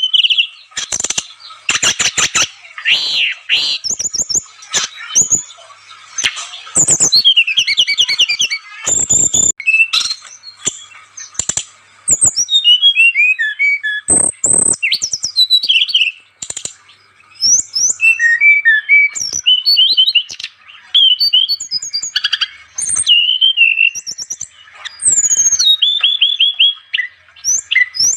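A songbird, given as a sikatan rimba dada coklat (brown-chested jungle flycatcher), singing a fast, varied run of chirps, trills and sweeping high whistles, in loud phrases broken by short gaps. Sharp clicks cut in now and then.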